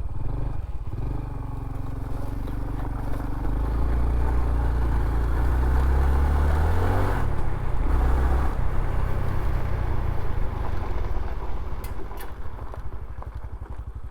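Honda CT125's single-cylinder four-stroke engine running as the bike is ridden, its note changing pitch several times as it speeds up and shifts gear, over a steady rushing noise of wind and road.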